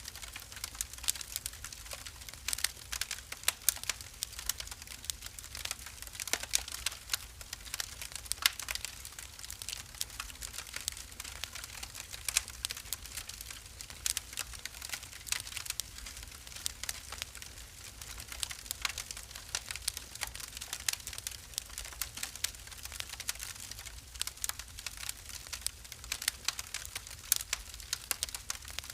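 Wood fire burning in a fireplace: irregular sharp crackles and pops over a steady low rumble and hiss.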